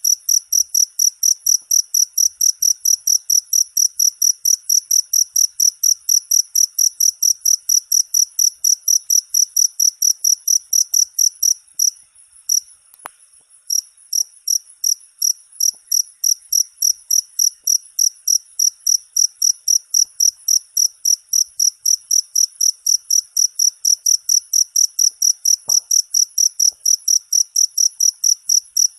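A cricket chirping: loud, evenly spaced high-pitched chirps, about three to four a second, pausing for a couple of seconds about halfway through before going on.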